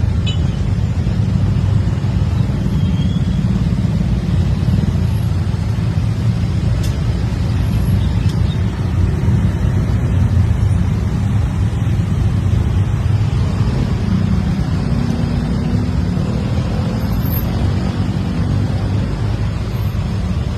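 Steady low rumble of road traffic, with no sharp events.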